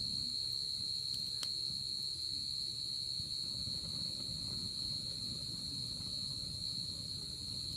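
Night insects trilling in one unbroken high-pitched drone, over the low rumble and crackle of a wood fire burning in a fire pit, with a couple of faint pops about a second and a half in.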